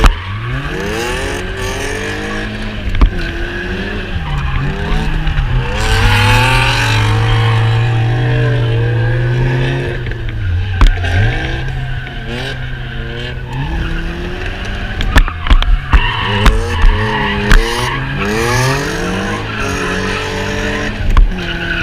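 Several drift cars sliding past with their engines revving up and down and tyres squealing. Their engine notes overlap and rise and fall, and a run of short sharp cracks comes in the second half.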